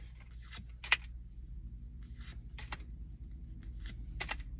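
Pokémon trading cards being handled and flicked through: scattered soft snaps and swishes, with one sharper snap about a second in, over a low steady hum.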